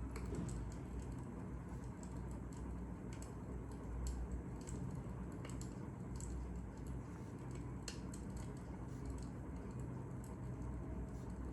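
Wood fire crackling: scattered, irregular sharp pops and ticks over a steady low rumble.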